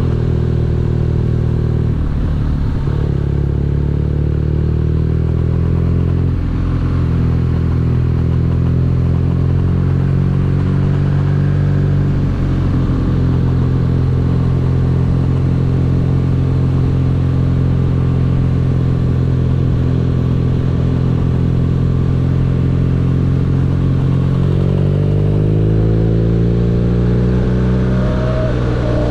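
BMW R nineT's 1170 cc boxer twin running at a steady cruise, then accelerating with rising pitch in the last few seconds before dropping sharply, like a gear change.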